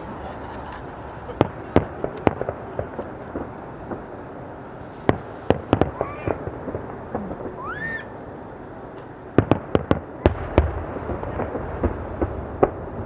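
Fireworks going off: sharp scattered bangs, with a quick run of several about two-thirds of the way in. Twice a whistle rises in pitch as a whistling shell climbs.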